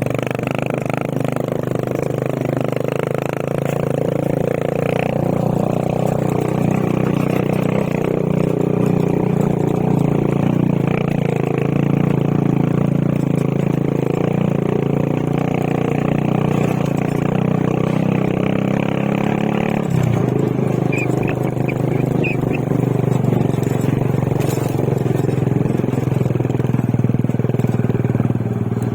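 Motorcycle engine running steadily on the move, with a shift in the engine note about two-thirds of the way through.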